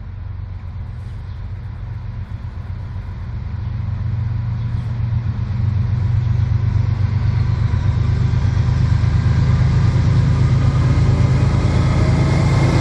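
Diesel locomotives of a CSX freight train approaching at speed, a steady low engine rumble growing steadily louder.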